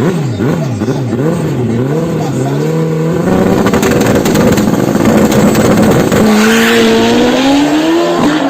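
A drag bike's engine is revved up and down several times, then about three seconds in it pulls away hard in a long run with the engine note climbing.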